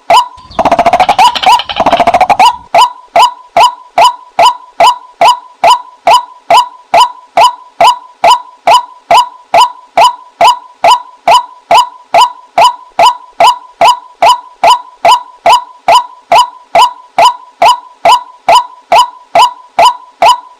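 Female white-breasted waterhen call played as a hunter's lure: a short 'kwak' note repeated steadily about twice a second, loud. Near the start a denser, harsher burst of calling runs for about two seconds before the even repetition resumes.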